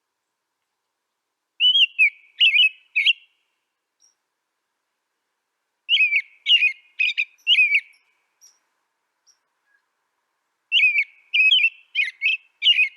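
A songbird singing three short phrases of quick chirping notes, each phrase lasting about a second and a half to two seconds, with pauses of a few seconds between them.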